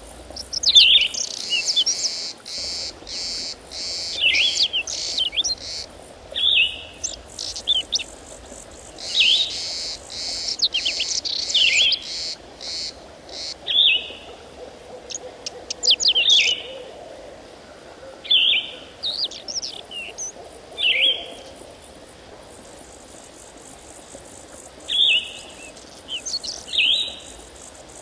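Birdsong: short, high, falling chirping calls repeated every second or two, mixed with bursts of fast high trilling, and a brief lull a little past the middle.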